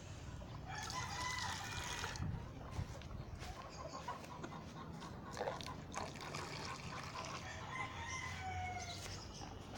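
Game fowl roosters crowing, once about a second in and again near the end, among other chicken calls.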